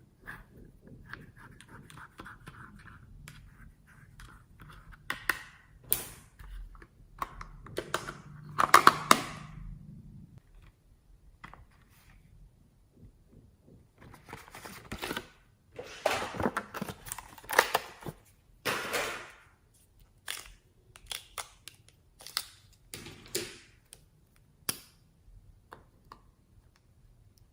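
Slime being squished and mixed by hand, with irregular bursts of wet crackling and scattered sharp clicks, busiest about a third of the way in and again past the middle.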